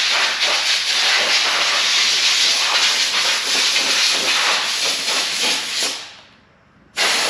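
Loud steady hiss of a pressurised spray for about six seconds, stopping abruptly, then a second short blast near the end.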